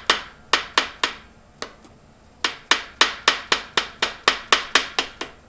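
Hammer taps seating the rear main bearing cap of a Chevrolet 235 inline six down over its dowel pins: a few separate taps, then a quick run of about a dozen, some four a second.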